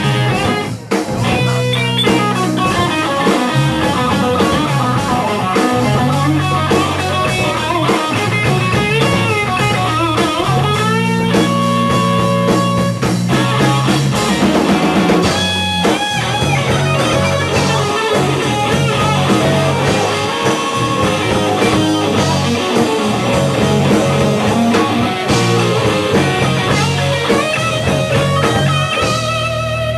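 Rock band instrumental break: an electric guitar plays bending lead lines over bass and drums. Near the end, sustained wavering keyboard-like tones come in.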